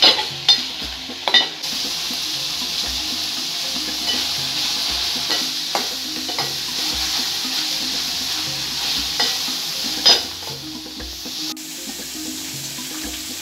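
Minced beef sizzling as it fries in an aluminium pot, stirred with a metal spoon that clicks and scrapes against the pot now and then. The loudest clicks come right at the start and about ten seconds in, and the sizzle is a little quieter near the end.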